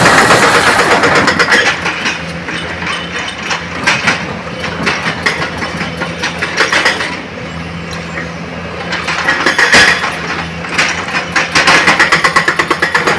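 Heavy diesel machine engine running steadily, getting louder under load at the start and again from about two-thirds through, with a rapid rattling clatter in the loud stretches.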